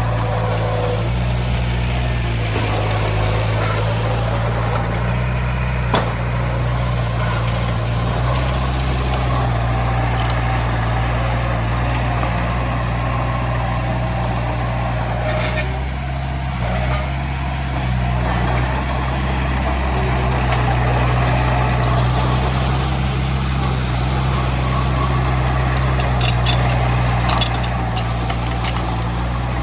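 Diesel engine of heavy earthmoving machinery running steadily under load, with a few short sharp clicks and clanks: one about six seconds in, and clusters about halfway through and near the end.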